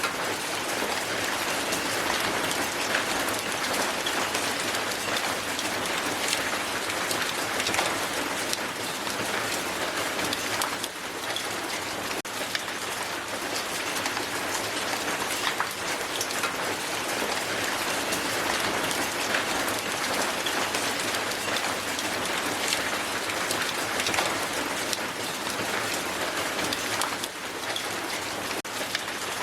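Hail falling and striking the ground: a steady, dense hiss of countless small, sharp impacts.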